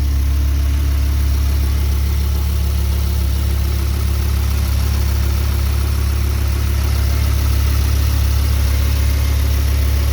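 2010 Audi R8's V10 engine idling smoothly and evenly, still warming up after a cold start.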